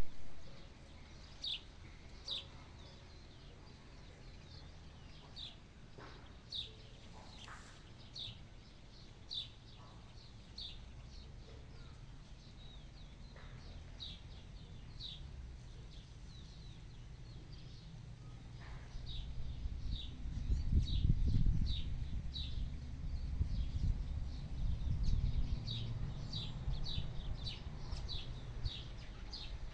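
A bird repeating short, high, falling chirps about once a second, over a low rumbling noise that swells up louder past the middle and then eases off.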